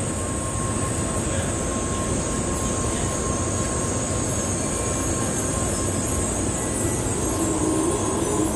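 Shinkansen bullet train rolling slowly into the platform and drawing to a stop: a steady rumble and hiss with a faint constant high tone.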